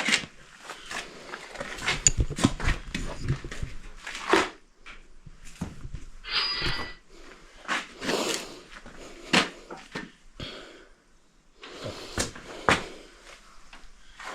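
Irregular clanks, clicks and knocks of hand tools and metal parts being handled, with a brief high squeal about six seconds in.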